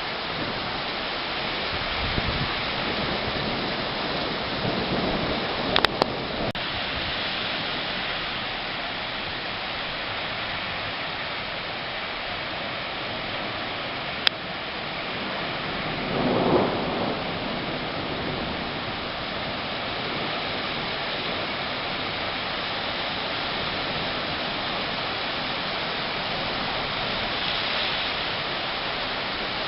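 Heavy rain falling steadily as an even hiss, with a few sharp clicks about 6 and 14 seconds in and a brief swell in the noise around 16 seconds.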